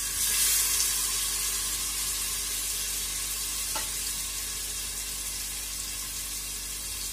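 Paneer cubes sizzling as they fry in hot oil in a pressure cooker. The sizzle is loudest just after the cubes drop in and slowly eases off.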